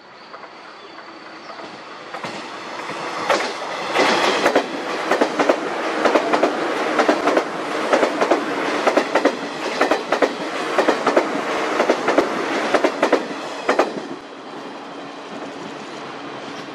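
JR East 185 series electric train passing close by, its wheels clattering in a steady run over the rail joints. The clatter builds over the first couple of seconds, stays loud through most of the pass, and fades as the train recedes near the end.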